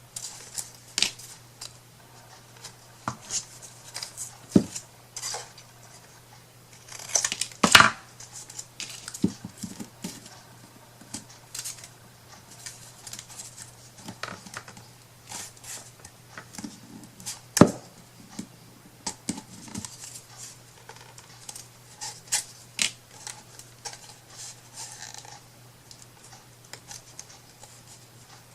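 Hand crafting noises: irregular light clicks, taps and rustles of paper and tools being worked on a small wooden box, with two sharper knocks, about a quarter of the way in and just past halfway, over a faint steady hum.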